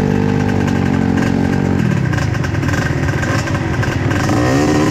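Suzuki TS125 two-stroke trail motorcycle engine running at a steady note, which turns rougher and choppier about two seconds in, with the revs rising near the end.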